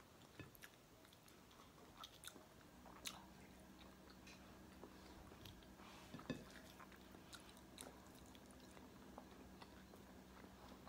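Quiet, close-up chewing and small mouth clicks of a person eating rice and fried fish, with scattered short ticks, the strongest about six seconds in. A faint steady low hum sets in about three seconds in.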